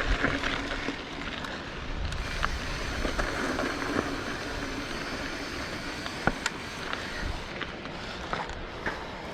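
Mountain bike rolling along a dirt trail: a steady rush of tyre and wind noise with scattered clicks and rattles from the bike, and a sharper knock about six seconds in.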